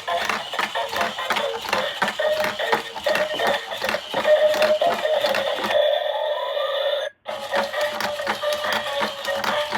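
Electronic toy sound effects: fast repeated beeping tones over rapid clicking, with a rising tone about six seconds in and a brief cut to silence about seven seconds in.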